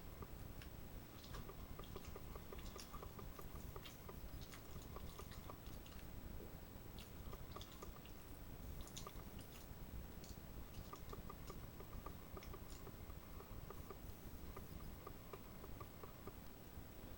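A person chewing food close to the microphone, with wet mouth clicks and small crunches every second or so, over a steady low hum.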